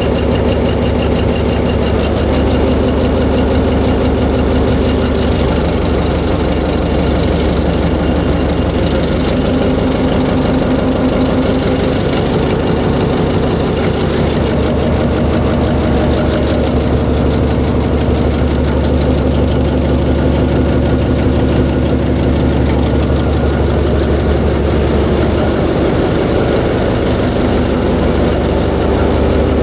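Diesel generator engine running steadily at a constant speed during its trial run after a major overhaul.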